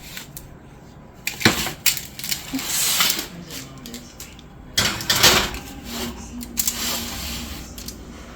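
Kitchen clatter: scattered sharp clicks and knocks of utensils and dishes being handled, with two longer noisy stretches of scraping or rustling, about three seconds in and about five seconds in.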